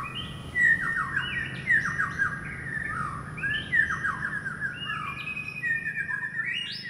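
A bird calling: short phrases of chirps that fall in pitch, repeated about once a second, over a steady low hum.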